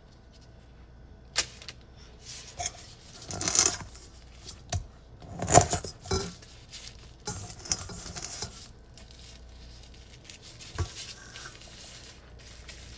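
Gloved hands rolling a roasted kataifi and pistachio mixture into small balls: scattered rustles and crackles with light clicks and clinks, loudest about five and a half seconds in, with a sharp knock near the end.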